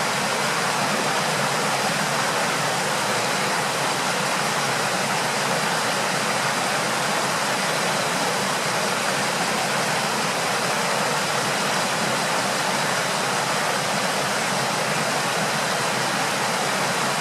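Steady rush of flowing water: an even, unbroken noise with no changes.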